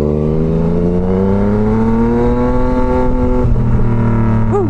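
Yamaha MT-09's three-cylinder engine pulling under throttle, its pitch rising steadily for about three seconds, then dropping suddenly about three and a half seconds in and running on at a lower steady pitch.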